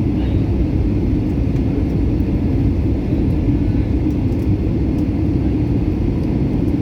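Airliner noise: a steady, loud, low rumble of jet engines and rushing air, with no change in pitch or level.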